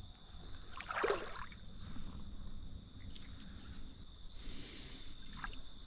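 Insects droning steadily outdoors in a continuous high chorus. A brief scuffing noise comes about a second in, and a fainter one near the end.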